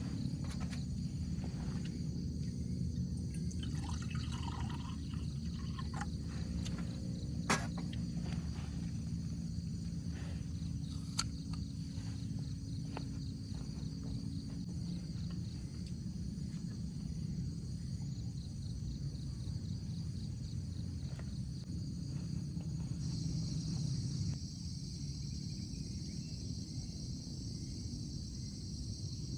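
Night ambience of steady high-pitched insect chirring over a low rumble, with two sharp ticks about a third of the way in.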